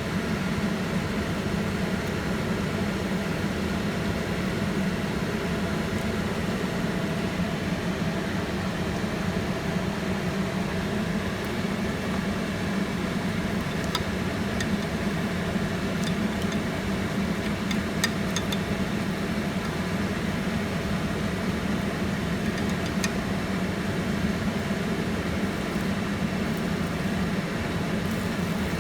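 Steady low mechanical hum, like a fan or motor running, with a few faint clicks around the middle.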